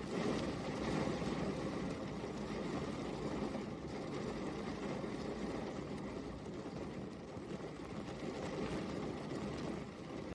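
Steady rain, an even, dense hiss with no separate drops or thunder standing out.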